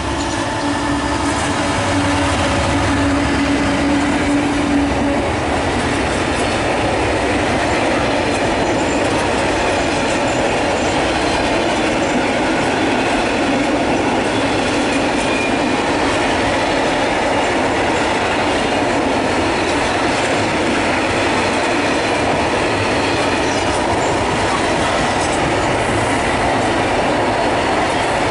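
A Freightliner Class 66 diesel locomotive, with its two-stroke V12 engine, passes with a steady engine tone for the first five seconds or so. After that comes the continuous rolling noise of a long rake of loaded container wagons running over the rails.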